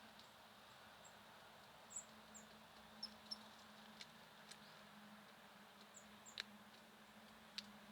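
Faint, short, high-pitched chirps from small songbirds, scattered through, with a few sharp clicks and a low steady hum underneath.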